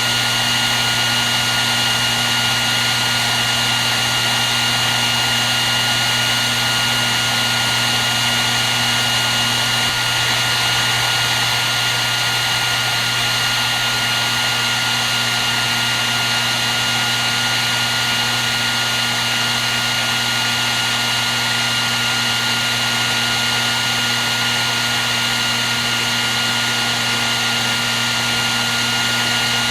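Hair dryer running steadily on one setting: a constant rush of air with a steady high motor whine and a low hum, unchanging.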